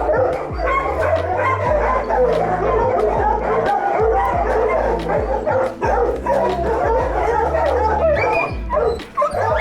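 Many dogs barking and yipping over one another, as in a kennel full of shelter dogs. Music with a low, steady bass line plays underneath.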